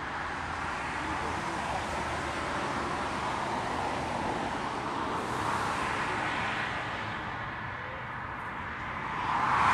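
Steady rushing noise of jet aircraft engines at the airfield, swelling about halfway through and rising louder near the end.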